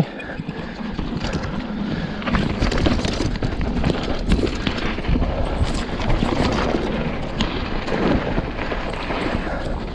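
Mountain bike rolling fast down a rough trail: a continuous rumble of tyres over stones and dirt with scattered clicks and knocks from the bike rattling, and wind buffeting the microphone.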